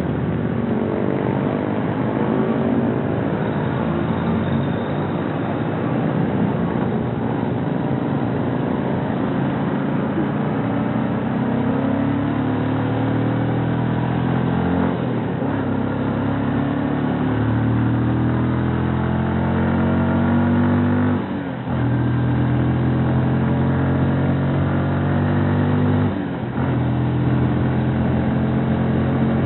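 Bajaj NS125 FI single-cylinder motorcycle engine under way, pulling up through the gears. Three upshifts in the second half, each a short dip in sound as the pitch drops and then climbs again.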